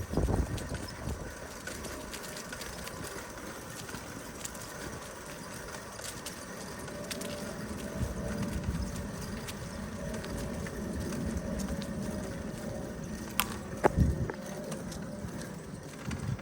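Bicycle ridden along a trail: steady tyre and wind rumble with scattered knocks and rattles from the bike, two sharper knocks near the end.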